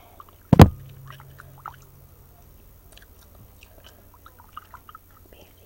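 Chewing gum close to the microphone, with small wet clicks and smacks. About half a second in there is one loud thump, the loudest thing here, and it leaves a low hum ringing for about two seconds.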